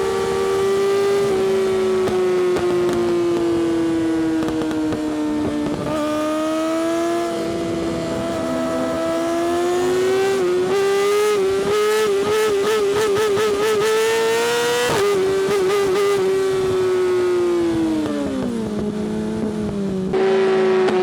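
Yamaha R6's inline-four engine with an Akrapovic exhaust, running at high revs with a steady high-pitched note. The pitch wavers up and down quickly in the middle, then falls as the revs drop near the end, and snaps back up just before the end.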